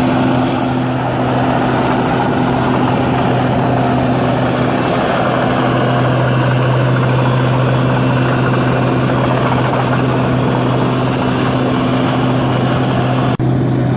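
New Holland 8060 combine harvester running steadily while harvesting rice, a loud drone with a deep hum. The sound cuts off for an instant near the end.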